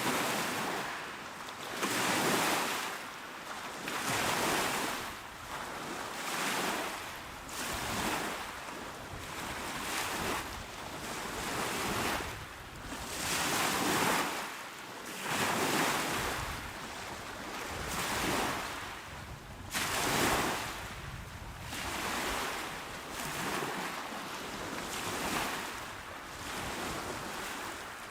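Small, calm sea waves breaking on a shore, each wash swelling and fading in turn about every two seconds.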